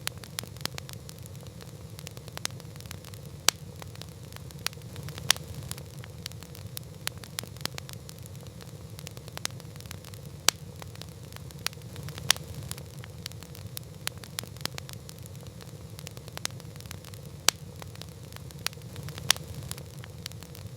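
Wood campfire crackling: irregular sharp pops and snaps, a few much louder than the rest, over a steady low rushing noise.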